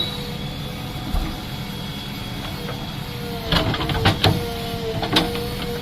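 JCB backhoe loader running steadily with a held whine, then from just past the middle a cluster of sharp knocks and clanks as the bucket jabs at hard, stony ground to break it up.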